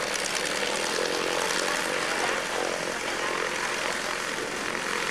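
Propeller-driven light aircraft engine running steadily.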